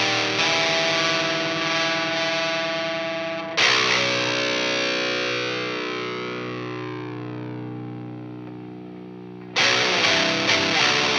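Down-tuned Telecaster electric guitar with flatwound strings, played through an overdrive pedal and amp. A held chord gives way, about three and a half seconds in, to a new chord that rings out and slowly fades for about six seconds, then quicker picked notes resume near the end.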